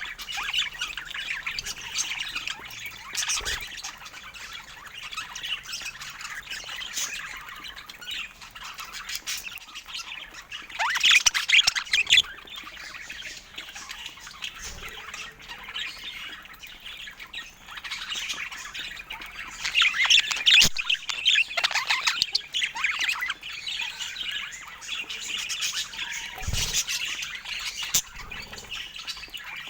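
Budgerigars chattering and warbling without pause, with squawks and chirps, rising into louder bursts twice, about a third and two thirds of the way through.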